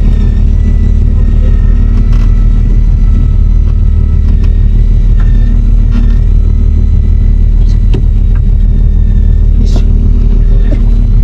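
Fishing boat's engine running steadily, with a faint, steady high whine above it and a few light clicks.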